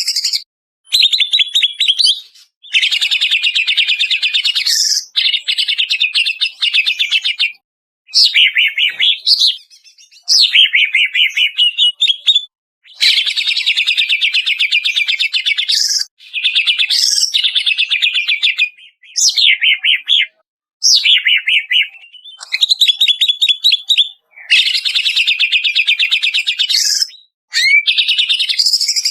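Greater green leafbird (cucak ijo) song as a training track: fast chattering trills and sweeping whistled notes in phrases of one to three seconds, separated by short clean gaps.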